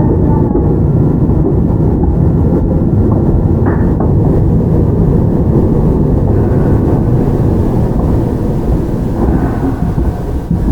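Running noise inside a Toyama Chiho Railway 17480-series electric train (ex-Tokyu 8090 series, field-chopper control): a steady low rumble of wheels on rail and traction motors, with a faint steady hum above it, easing slightly near the end.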